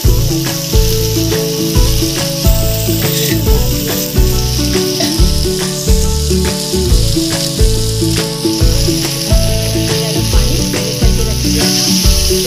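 Vegetables and instant noodles sizzling as they fry in a hot kadai, with background music with a steady beat over them. Near the end the sizzling surges as water is poured into the hot pan.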